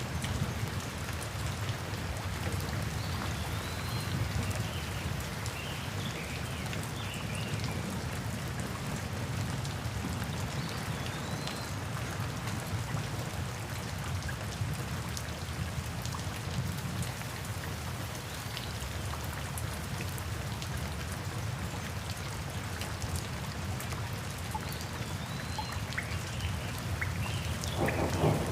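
Steady rain falling and pattering on surfaces, an even continuous hiss. Right at the end a rumble of thunder begins to swell.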